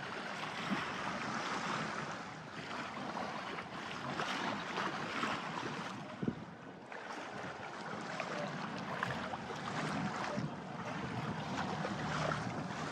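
Water rushing and splashing along the hull of a sailing yacht under way, mixed with wind on the microphone, swelling and easing every second or two.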